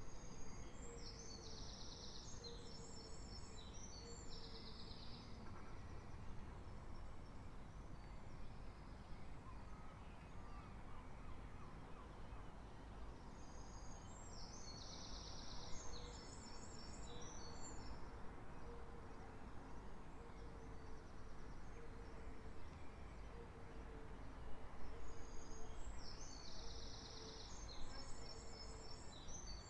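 A songbird singing short, high, twittering phrases three times, roughly thirteen seconds apart, over a steady low rumble of background noise. A faint low note repeats evenly underneath.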